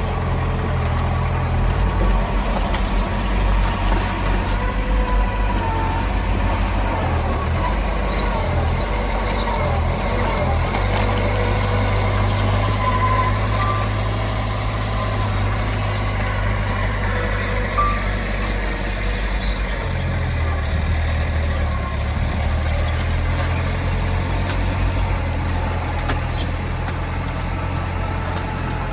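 Diesel engine of heavy earthmoving machinery running steadily, its pitch shifting a few times as the engine speed changes.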